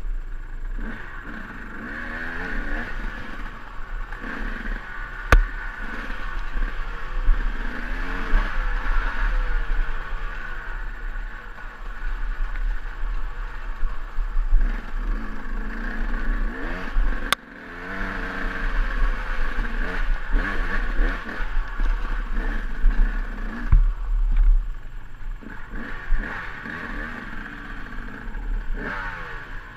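KTM EXC 200 two-stroke single-cylinder dirt bike engine running on a rough trail, revving up and down again and again as the throttle is worked, with clatter from the bike over rough ground. Two sharp clicks, about five seconds in and about seventeen seconds in.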